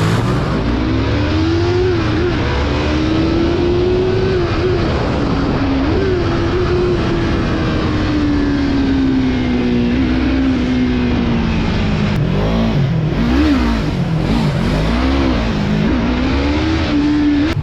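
Yamaha MT-03's parallel-twin engine on the move, its pitch climbing and dropping with gear changes, then a run of quick rev rises and falls in the last few seconds, with steady wind rush.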